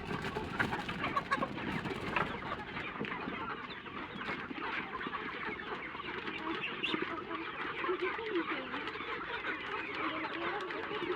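A large flock of chickens clucking continuously, many birds calling over one another.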